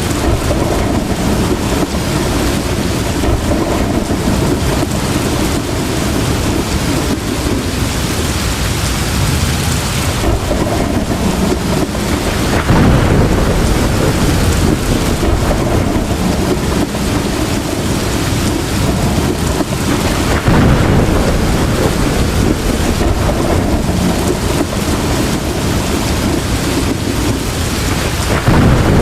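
Heavy rain pouring steadily, with deep rolls of thunder that swell louder about twelve seconds in, again about twenty seconds in, and near the end.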